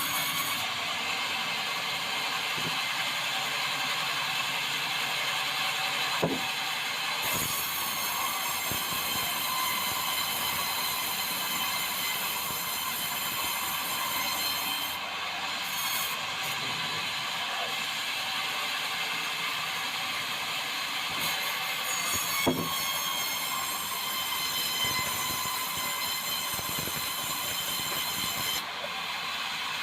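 Swing-blade sawmill running and sawing white meranti timber: a steady mechanical din with a high whine that comes in for two long stretches, and two sharp knocks, about six and twenty-two seconds in.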